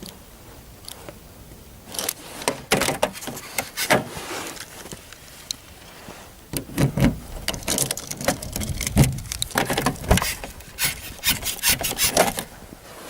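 Snow being scraped off a car by hand: rough scraping strokes in irregular bursts, starting about two seconds in. No engine is running.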